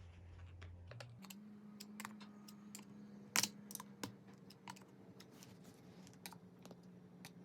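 Scattered small clicks and taps of a screwdriver and plastic steering-wheel parts as the airbag's retaining clips are pushed down into place, the sharpest click about three and a half seconds in, over a low steady hum.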